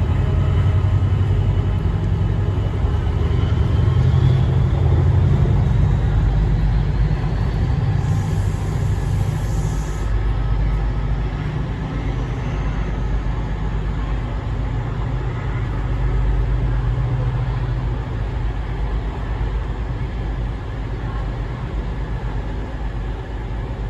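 Class 68 diesel-electric locomotive's Caterpillar V16 engine running as the train passes through a station, a heavy steady low rumble with the sound of the train over the rails. The rumble eases a little toward the end.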